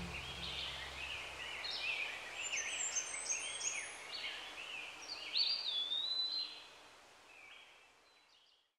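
Songbirds chirping and singing in quick, short notes over a soft outdoor hiss, fading out near the end.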